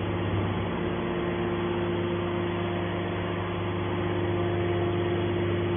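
Hydraulic scrap baling press running, its motor and pump giving a steady hum.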